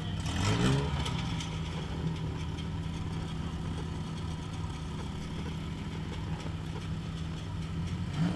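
Compact demolition-derby car's engine, heard from inside the stripped cab, revving up briefly about half a second in, then idling steadily. It begins to rev again near the end.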